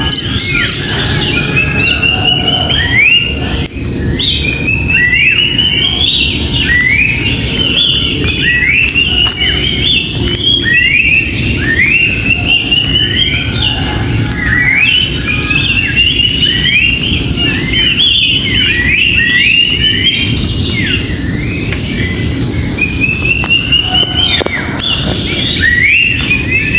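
Wild birds singing without a break: quick runs of short rising notes and sharp falling strokes, repeated phrase after phrase, over a steady low rumbling noise.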